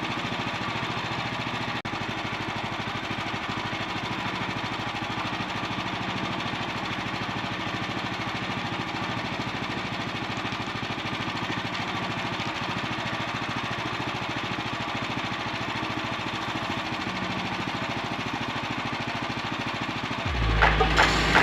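Small gasoline engine of a portable sawmill running steadily with no change in speed. Background music with a strong beat comes in near the end.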